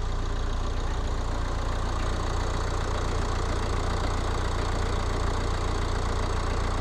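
Nissan X-Trail's 2.0 dCi four-cylinder diesel engine idling steadily while still cold.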